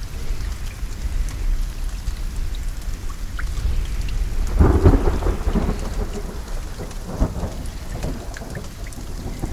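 Steady rain falling, with a low rumble underneath. About halfway through, a roll of thunder swells and fades over a couple of seconds, with a shorter crack a little later.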